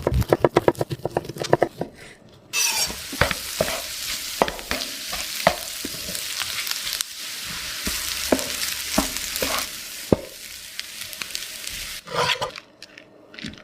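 Egg fried rice frying in a hot pan: a loud steady sizzle that starts suddenly, with scattered knocks of the spatula against the pan as it is stirred. The sizzle cuts off near the end. It is preceded by fast, even tapping of a utensil about six times a second.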